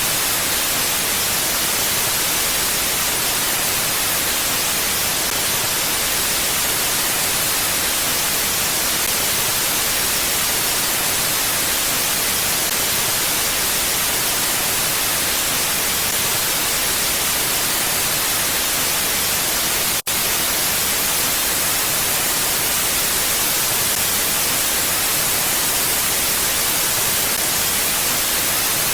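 Steady mountain wind ambience: an even, unbroken hiss strongest in the high range, with a momentary dropout about twenty seconds in.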